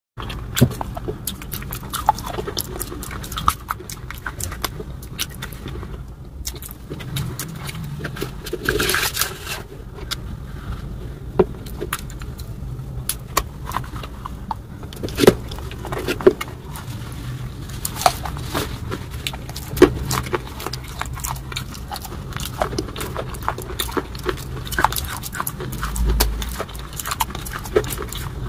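Close-miked eating: chewing of crunchy rolls and wet rice eaten by hand, with many sharp crunches and mouth smacks over a steady low hum. There is a longer noisy burst about nine seconds in.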